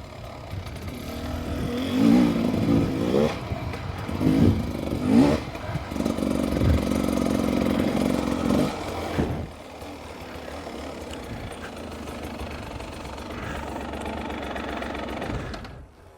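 Dirt bike engine revving up and down repeatedly as it is ridden, then running quieter and steadier from about ten seconds in.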